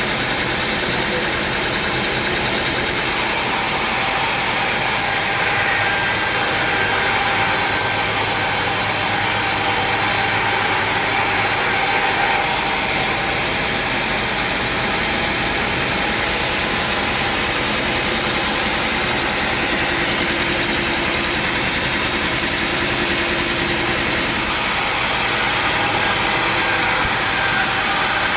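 Sawmill machinery running steadily under load, a continuous mechanical din of motor and saw.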